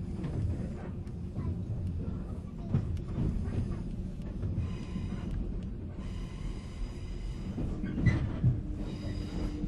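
Running noise inside a 485-series limited express motor car (MoHa 485): a steady rumble of wheels on rail with scattered clicks from the track. A thin whine comes in for a few seconds midway, and a couple of louder knocks follow near the end.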